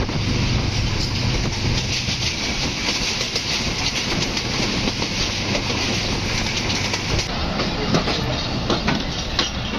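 Passenger train running at speed, heard at an open coach window: a steady rush of wheel and wind noise, with the wheels clattering in quick clicks over the rail joints that grow sharper from about three seconds in.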